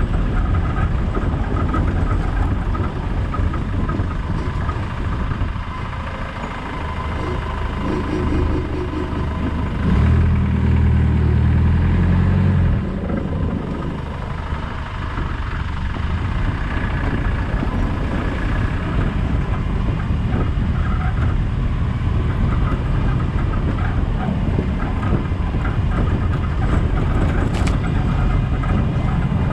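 Land Rover Discovery 200 Tdi's four-cylinder turbodiesel engine running while the 4x4 drives off-road, with a steady rumble. A louder, deeper engine note lasts about two and a half seconds, starting about ten seconds in.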